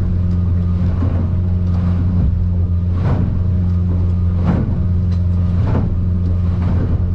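Outboard engine of an aluminium Stabicraft 2050 Supercab running steadily in a deep drone, heard from inside the cab. Waves hit the boat about five times, a second or two apart, as it rides through rough swells.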